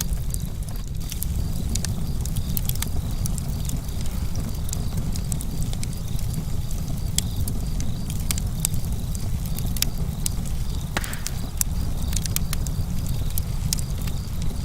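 Campfire burning, the wood crackling and popping in frequent sharp, irregular snaps over a steady low rumble.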